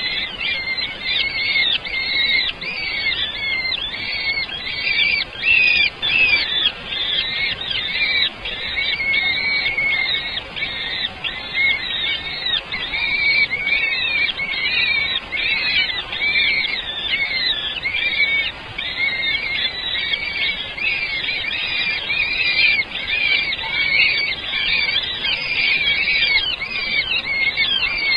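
Small birds chirping non-stop, many short high calls overlapping one another.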